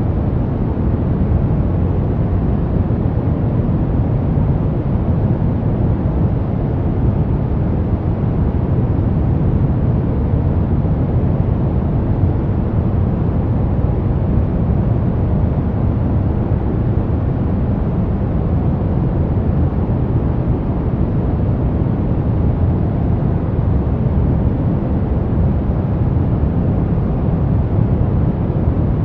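Steady brown noise: an even, deep rushing hiss, heaviest in the bass and falling away in the highs, with no changes.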